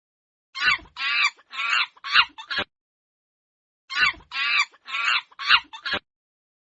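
Monkey calls: a burst of about five quick, high-pitched calls, then the same burst again a second later.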